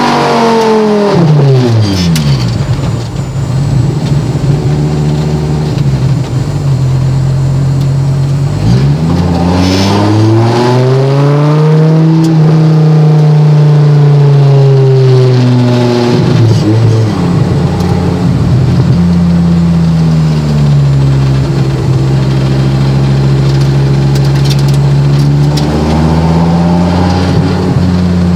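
Dodge Viper GTS's V10 engine heard from inside the cabin at low speed. The revs drop in the first couple of seconds, climb under acceleration about nine seconds in, ease off again around fifteen seconds, and then hold steady, with a brief small rise near the end.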